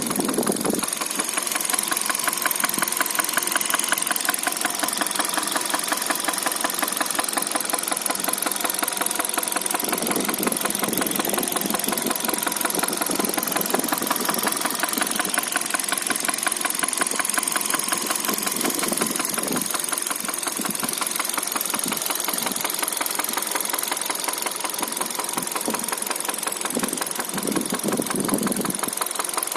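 Hyundai Solaris petrol engine running with a fast, even knock in time with the engine. The owner takes it for a valve knock, after the engine ran short of oil.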